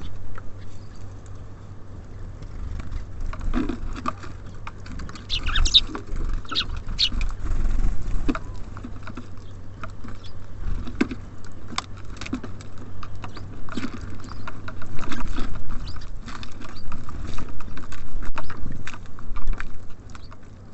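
Small birds (tits and sparrows) feeding at a bird feeder: irregular pecking taps, clicks and scratches of beaks and feet on the feeder and seed.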